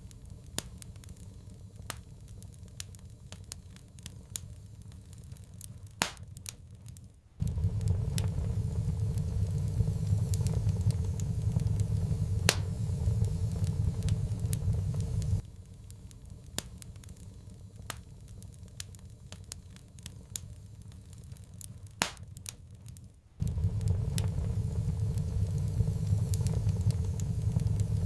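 Wood fire crackling in a fireplace, with scattered sharp pops. A low rumble comes in about seven seconds in, drops out around the middle, and returns near the end.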